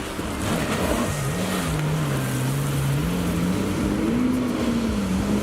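Engine of a watercraft running at varying throttle, its note sliding down and then rising and falling again over a steady wash of water and wind noise.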